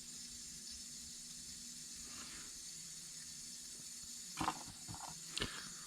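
Faint steady hiss with a low hum underneath, then two small sharp clicks about a second apart near the end, from small drone parts being handled on the bench.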